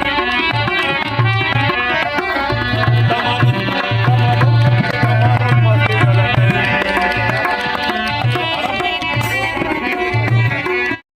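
Live Indian folk music played without singing: steady hand-drum strokes under a busy melodic accompaniment. The music cuts off suddenly near the end.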